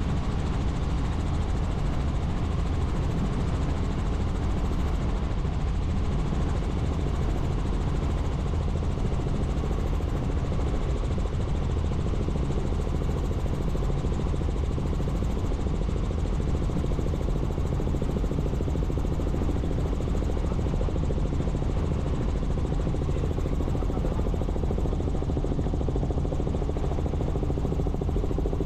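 Helicopter in steady flight: a constant low rotor drone with engine noise above it, unchanging in level throughout.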